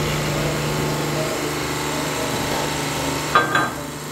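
Workshop machinery humming steadily, the hum dropping away about a second in, then two sharp metal clanks a little after three seconds in as tooling is set on the press for pushing out a rear bushing.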